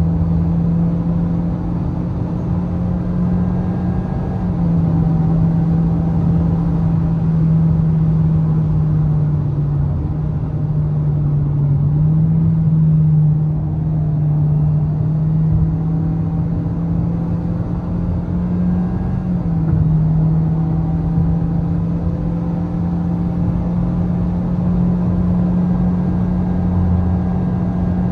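A Toyota Vios car engine running at fairly steady revs while driving, its drone rising and falling slightly in pitch several times, with road noise underneath.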